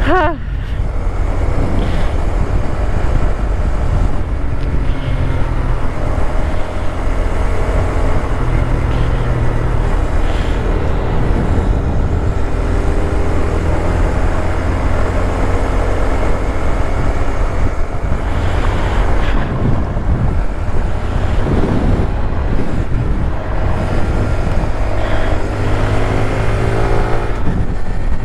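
Honda Grom's small single-cylinder engine running on the road, its pitch drifting up and down with throttle and speed, under heavy wind rush on a helmet-mounted microphone.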